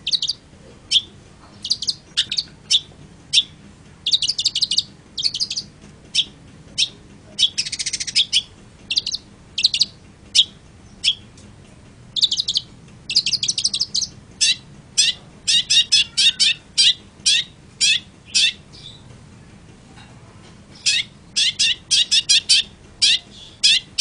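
Long-tailed shrike (cendet) singing: a steady run of short, high chirps and quick rattling trills, broken by a pause of about two seconds before a last burst of calls.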